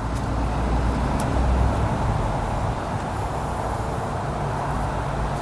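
Steady low rumbling background noise, with no distinct clicks or strokes, a little louder about a second and a half in.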